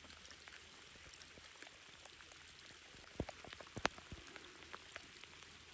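Light rain falling, individual drops ticking on a nearby surface, with a few sharper taps a little after three seconds in.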